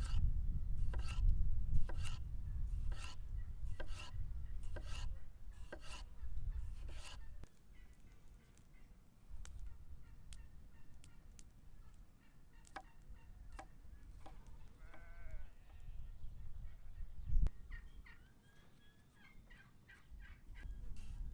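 Farmyard poultry calling, with a run of evenly spaced knocks over a low rumble in the first several seconds and a short wavering call about halfway through.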